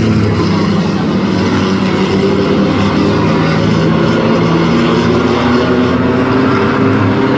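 Racing trucks' engines running together on a short oval track: a loud, steady drone of several overlapping engine pitches, with no single truck passing standing out.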